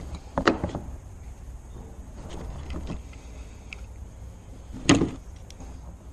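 Clicks and knocks from work on a car's outside door handle and door: a quick cluster about half a second in and one sharp, louder knock about five seconds in, with a few faint ticks between.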